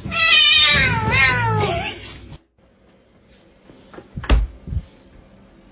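A cat meowing in one long, loud call that wavers and falls in pitch, cut off suddenly about two seconds in. A couple of short knocks follow, the loudest a thump about four seconds in.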